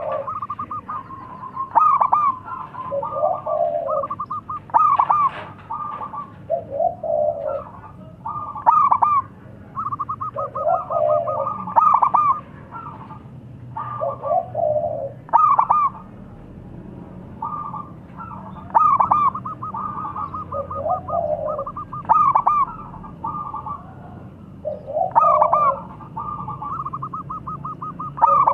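Zebra dove (perkutut) cooing its rolling, staccato song, with phrases repeating about every three seconds, each a fast trill of notes followed by lower coos.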